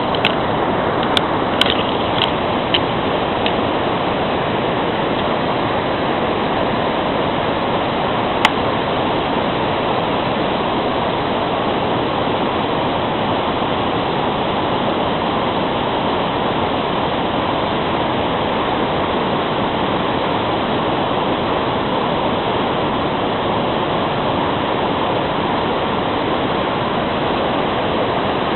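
Steady rush of falling water from a waterfall. A few small clicks come in the first three seconds, and one sharp click about eight and a half seconds in.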